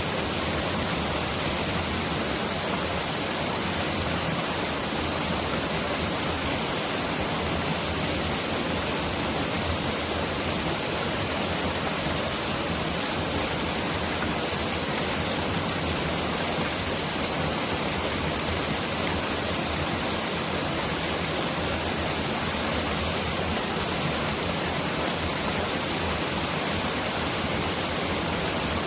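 Mountain valley stream's water rushing steadily, an even, unbroken hiss that sounds like pouring heavy rain.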